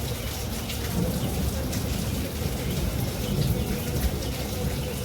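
Heavy rain falling steadily, with fine drop ticks hitting a surface over a deep low rumble that swells slightly a couple of times.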